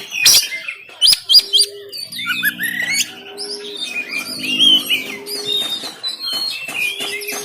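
Oriental magpie-robin singing a fast, varied run of sharp chirps, whistled slurs and harsh click-like notes. A short low note repeats about every two seconds underneath.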